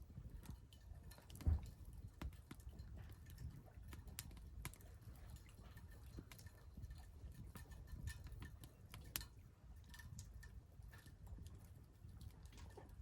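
Wood fire crackling in a Solo Stove fire pit: faint, irregular sharp snaps and pops over a low rumble, with one louder low thump about a second and a half in.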